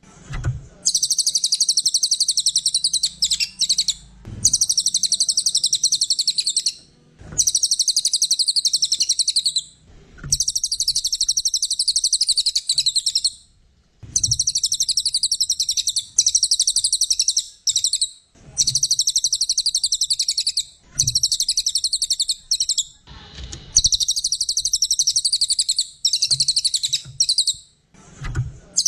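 Cililin songbird singing loud, rapid, high-pitched chattering trills in phrases of two to three seconds, broken by brief pauses.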